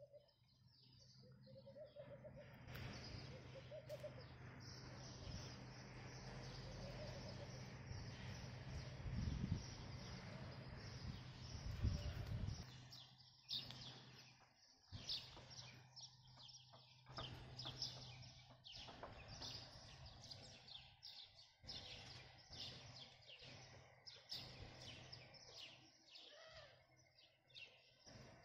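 Birds chirping in quick, high twitters, thickest in the second half. Under them in the first half is a steady faint rushing noise with a low hum, and a couple of low rumbles near the middle.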